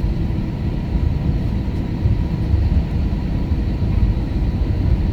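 Cabin noise inside an Airbus A321 on the ground before takeoff: a steady low rumble from the engines at idle, with a faint steady whine above it.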